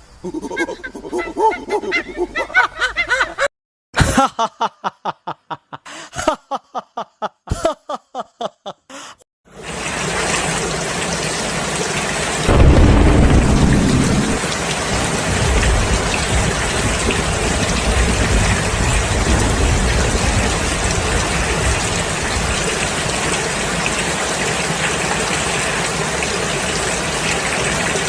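Short pitched calls and a run of quick repeated cries for the first several seconds. Then steady heavy rain begins, with a rumble of thunder a few seconds after it starts.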